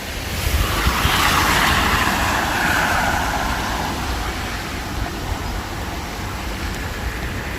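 A vehicle passing on a wet road: tyre hiss swells about a second in, then slowly fades away.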